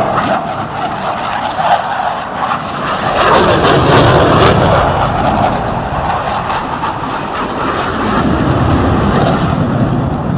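Military jet aircraft passing over with a loud, continuous roar. It swells to its loudest about three to five seconds in, where the pitch slides downward as the jet goes by, then builds again near the end.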